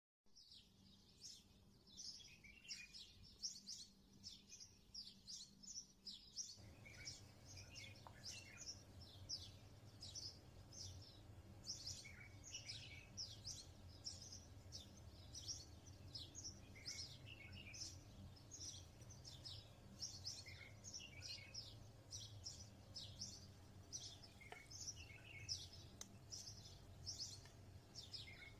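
Small birds chirping busily: many short, high, falling chirps, a few a second, with no pause. A faint low hum comes in about six seconds in.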